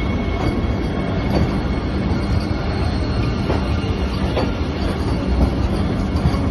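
Vande Bharat Express train running on the track: a steady rumble of wheels and rails, with a few faint clicks.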